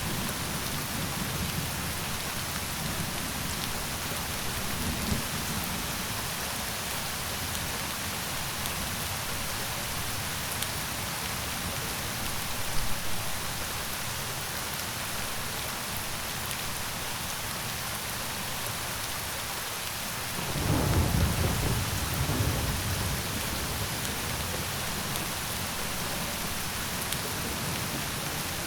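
Steady, even rain falling throughout, with a low rumble of thunder rising about two-thirds of the way in and dying away over a few seconds.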